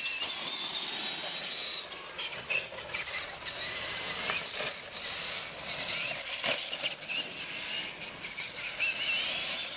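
Electric motors and gears of a radio-controlled monster truck whining, the pitch rising and falling as the throttle is worked. Scattered knocks and clatter as the truck bounces over the course, with one sharper knock about six and a half seconds in.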